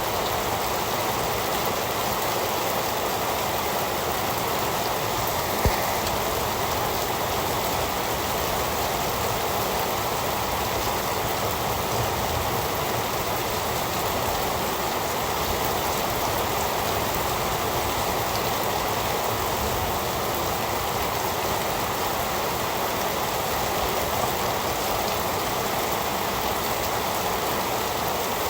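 Heavy rain falling steadily, an even dense hiss with no let-up. One brief sharp click stands out a little under six seconds in.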